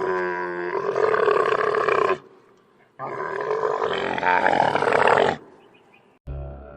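A large animal calling: two loud, long pitched calls of about two seconds each, with a pause between them. A short, lower sound begins near the end.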